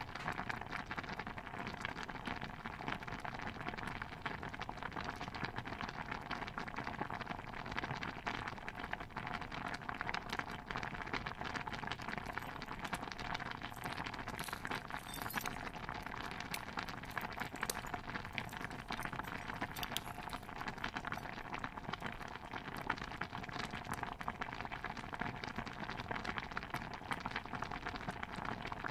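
A pot of stew bubbling steadily: a dense, unbroken patter of small pops and ticks.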